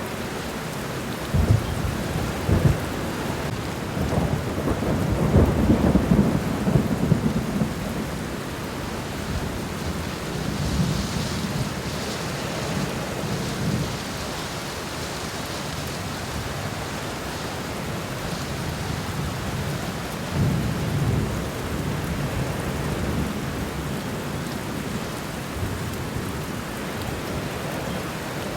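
Steady rain falling on the ground, with rolling thunder rumbling through it: a strong rumble about four seconds in, and weaker ones later on.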